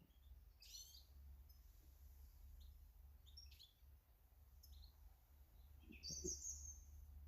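Faint, scattered chirps of small garden birds, with a louder call about six seconds in, over a steady low hum.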